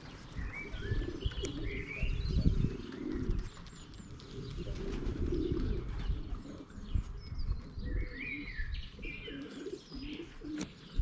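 Pigeons cooing with low, wavering calls, mixed with short high chirps.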